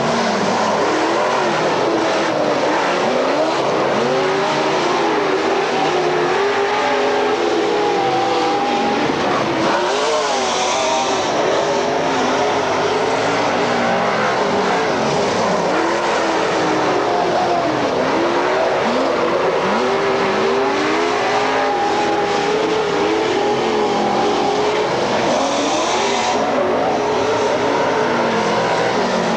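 Several dirt-track race car engines running hard together, their pitches repeatedly rising and falling as the cars accelerate, lift and pass around the oval.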